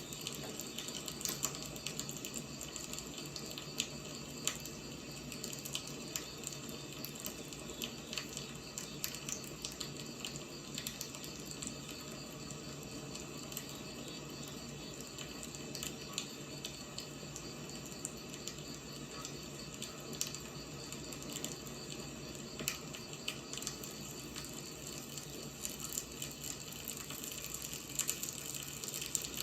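Firewood burning: a steady hiss with frequent small, irregular crackles and pops.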